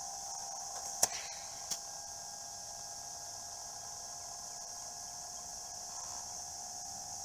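A short training bat striking a baseball on a one-handed swing: one sharp crack about a second in, then a softer knock a moment later, over a steady hum.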